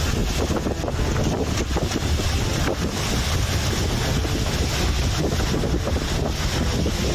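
Strong hurricane wind blowing across the microphone: a loud, steady rush of buffeting noise.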